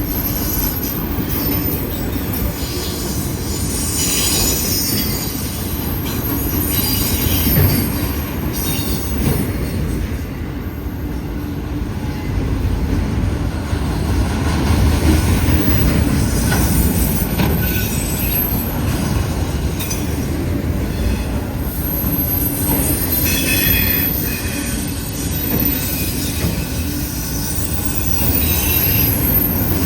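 Freight train rolling past: a steady low rumble of cars and wheels on the rails, with high-pitched wheel squeal coming and going.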